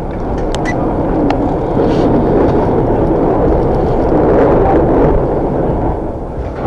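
Train wheels running on the rails over a bridge, heard from inside the carriage: a loud, steady rumble that builds over the first couple of seconds and eases off near the end. A few sharp clicks come in the first second or so.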